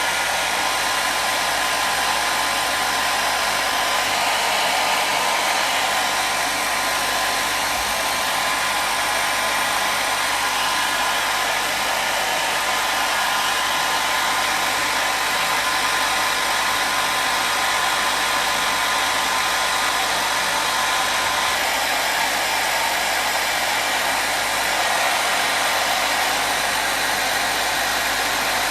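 Hair dryer running continuously: a steady airflow rush with a faint motor hum.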